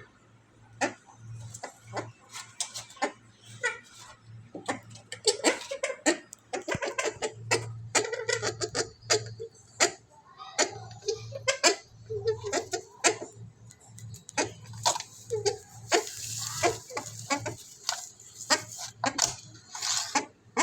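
Purple swamphen calls: a run of short clucks and sharp clicks, irregular and close together, over a low pulsing hum.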